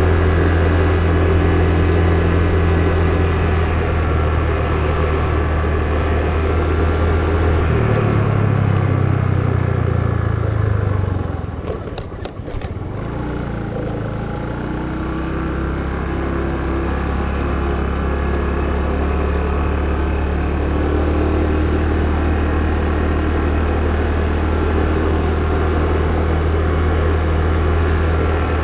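A motor vehicle's engine running steadily while under way. About a third of the way in its note rises briefly, then eases off and drops, with a few short clicks. It then picks up again to a steady drone.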